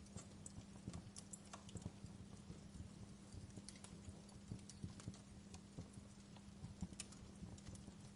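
Wood fire crackling: irregular small pops and snaps at uneven intervals over a soft hiss, with a faint steady low hum underneath.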